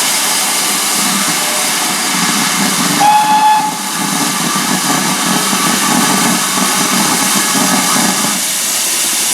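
GWR Manor-class steam locomotive working a train away from a station: a steady loud hiss of steam with a pulsing exhaust beat underneath, and a short whistle blast about three seconds in.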